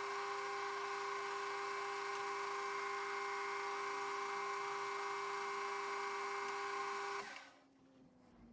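Workshop machine tool running: a steady motor whine with a hiss over it, which stops abruptly about seven seconds in.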